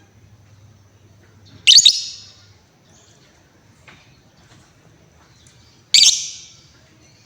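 Female lovebird giving two loud, shrill calls about four seconds apart, each starting suddenly and fading out quickly.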